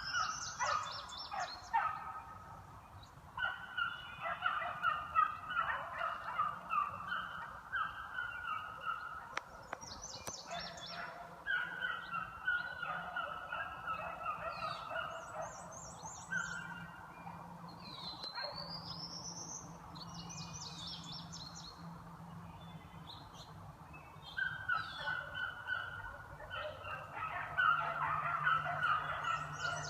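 A pack of beagles baying on a scent trail, several dogs giving tongue at once in short, overlapping repeated calls. The calling eases off a little past the middle and swells again near the end. Baying like this is the sign that the hounds are running a line.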